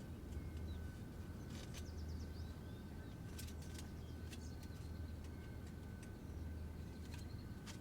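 Outdoor ambience: birds chirping now and then over a steady low rumble, with a few sharp clicks and a thin steady high tone.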